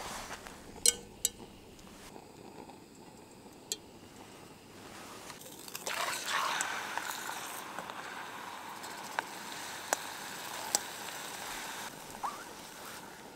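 Two sharp clicks about a second in. From about six seconds, a steady sizzling hiss with a few sharp pops as a chicken breast fries in a small frying pan on a gas camping stove.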